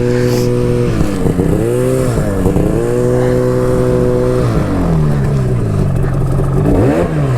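Arctic Cat snowmobile engine running at a high steady pitch that dips briefly twice, then falls off in repeated downward slides as the throttle eases, with a quick rev near the end.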